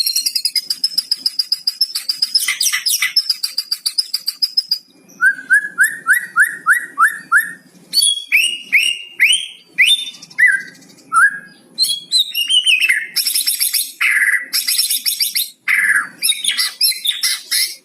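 White-rumped shama (murai batu) singing a varied song with mimicked phrases from a cucak cungkok. A fast trill opens it, then comes a quick run of about eight repeated rising notes, then falling whistles and busy high phrases.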